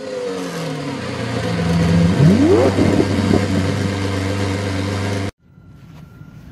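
Ford Focus 3 running just after starting, with a whistle from the car's speakers on top; about two seconds in a tone rises sharply in pitch and falls back. The sound cuts off suddenly about five seconds in.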